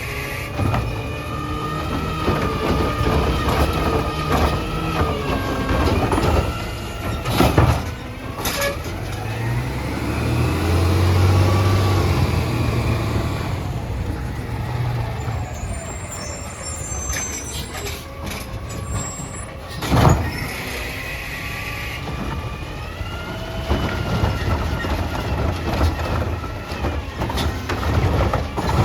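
Peterbilt 320 garbage truck's engine running, its pitch rising and falling as it revs. A heavier rumble builds up for a few seconds near the middle, and a few sudden sharp loud bursts stand out, the loudest about twenty seconds in.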